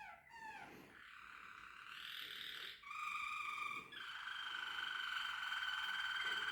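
Malinois Waterslager canary singing: a few quick falling notes, then a rolling, gurgling trill, then long, pure held tones that step to a new pitch about 3 and 4 seconds in.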